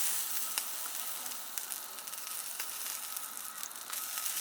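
Food sizzling over the heat, a steady hiss with scattered small pops.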